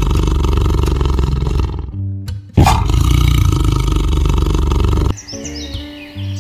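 A large animal roaring loudly twice, each roar starting abruptly and lasting about three seconds, with a short break between them.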